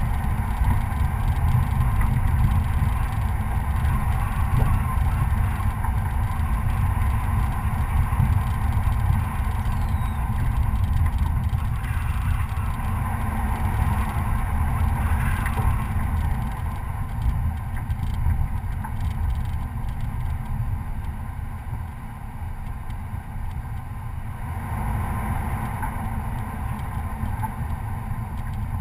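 Stock Chevrolet Colorado pickup driving along a dirt trail: engine and running gear noise, steady with a strong low end. It eases off somewhat past the middle and picks up again near the end.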